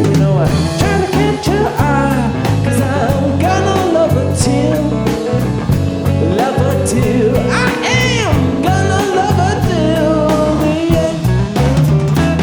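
Live rock band playing a song: bass and guitar chords under a lead melody that bends up and down in pitch, with cymbals keeping a steady beat.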